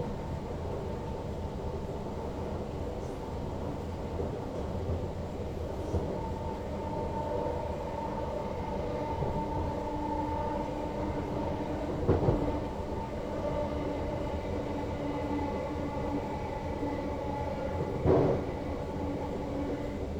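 NS Sprinter Lighttrain (SLT) electric multiple unit running along the line, heard from the driver's cab: a steady rumble of wheels on rail with steady electric motor tones. Two short, louder thumps come about twelve and eighteen seconds in.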